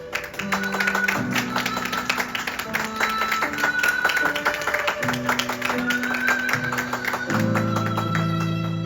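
Live musical-theatre music: fast, rhythmic plucked or strummed strings under a held melody line, with the bass chords changing every second or so.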